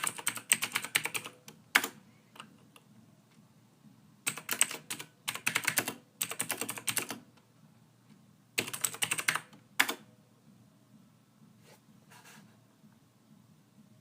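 Typing on a computer keyboard: quick runs of key clicks in bursts of about half a second to a second, separated by short pauses, with only faint sound in the last few seconds.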